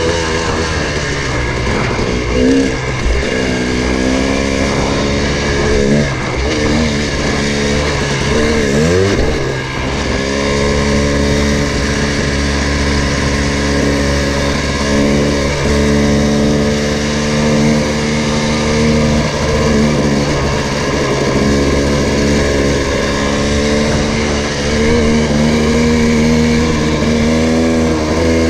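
Motorcycle engine running under way on a dirt track. Its note dips and climbs several times in the first ten seconds, as with throttle and gear changes, then holds steady.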